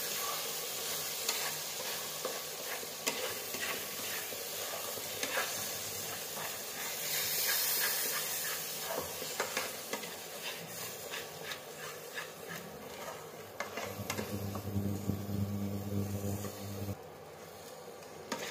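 Ground black-chickpea paste sizzling in hot mustard oil in an aluminium kadhai, stirred and pressed with a wooden spatula that scrapes and knocks against the pan. A low steady hum joins for a few seconds near the end, and after that the sizzle drops away.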